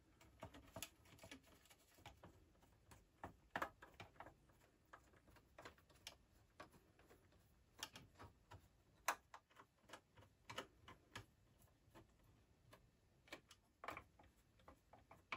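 Faint, irregular clicks and ticks of a screwdriver and steel screws against the metal chassis of a Macintosh 512Ke as the floppy drive is screwed in.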